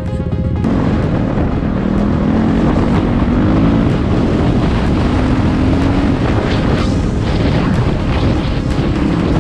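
Enduro motorcycle engine running and revving on the ride, its pitch rising and falling, with wind noise on the microphone.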